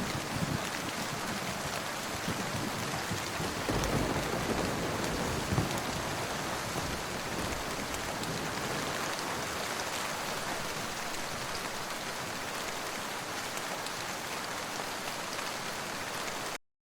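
Steady rain falling, with faint crackling from a wood fire. The sound cuts off abruptly just before the end.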